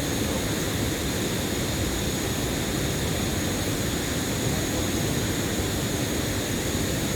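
Waterfall and stream water rushing in a steady, unbroken roar.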